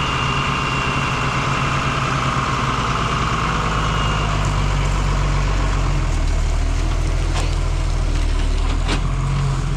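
A car engine running steadily as the car is pulled out for a listening test after repair; its low note shifts and grows stronger about six seconds in, with a few sharp clicks near the end.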